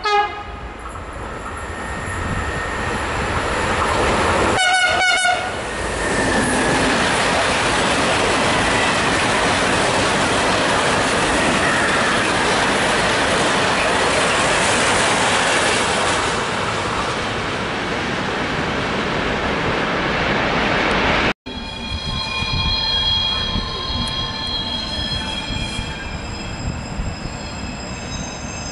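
E474 electric locomotive's horn sounds briefly at the start and again about five seconds in, then its train of open freight wagons rumbles past loudly and steadily. After a sudden cut, a freight train shunting behind an E652 locomotive, its wheels squealing in several steady high tones.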